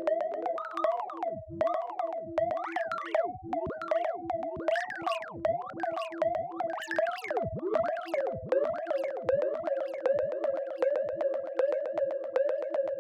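Synthesized robot beeps and chirps in the style of R2-D2: quick pitch sweeps up and down over a steady, pulsing electronic tone with a rapid ticking rhythm. The sweeps thin out in the last few seconds, leaving mostly the pulsing tone and ticks.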